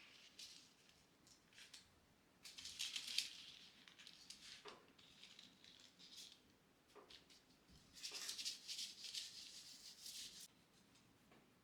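Faint close-up rustling and crinkling in two spells, about two and a half seconds in and again from about eight seconds in, with a few light taps between them.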